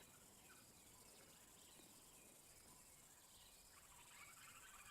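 Near silence: faint bush ambience with a steady high insect hiss, and a few faint chirps near the end.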